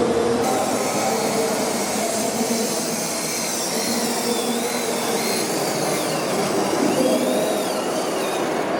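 A small motor whirring steadily, with a faint high whine that wavers up and down in pitch in the second half.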